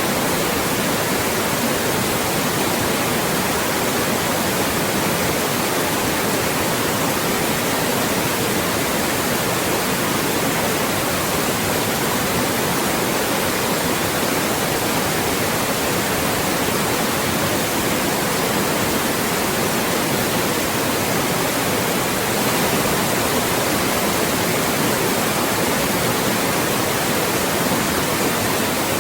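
Loud, steady white noise, an even hiss across the whole range without any change.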